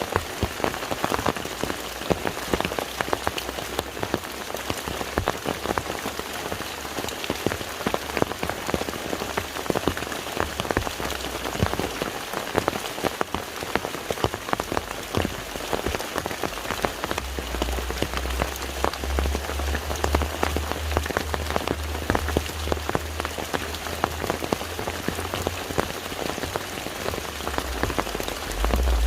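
Steady rain falling on a lake's surface, a dense patter of many drops. A low rumble comes in about halfway through and swells near the end.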